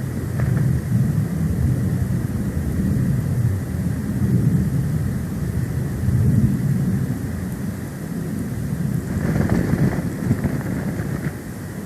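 Storm wind buffeting the nest cam's microphone during a snowstorm: a continuous, uneven low rumble, with a brief harsher gust about nine seconds in.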